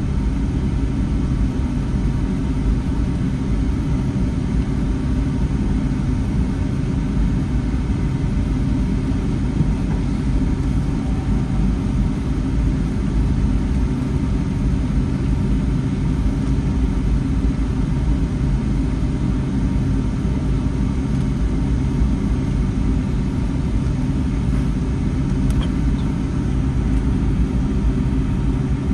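Cabin noise inside a Boeing 757-300 with its engines running at low power before takeoff, a steady low rumble that does not change.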